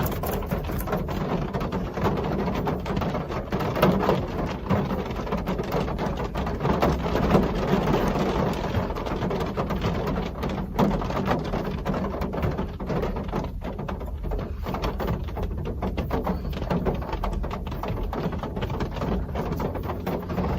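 Real rain falling steadily, a dense patter of many small drops.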